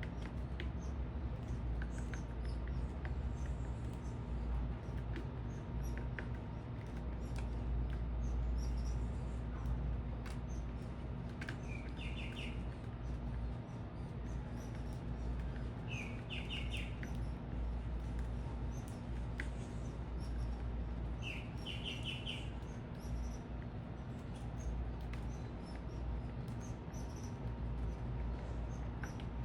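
Birds at a feeder: three short chirping calls about four to five seconds apart, with faint high ticks and chirps scattered throughout, over a steady low rumble.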